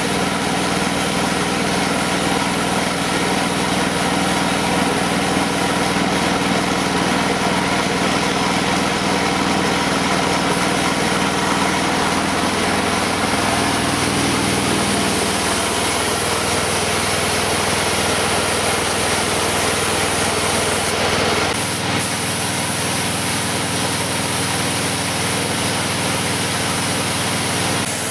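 A machine running steadily for the whole stretch: a constant engine-like hum with a hiss over it, its pitch shifting slightly about 12 seconds in and again about 22 seconds in.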